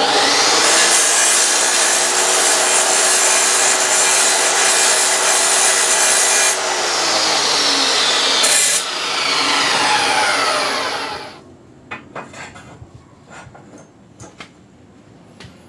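Power saw cutting through wood, its motor running steadily at first and then winding down, falling in pitch until it stops about eleven seconds in. A few light knocks follow.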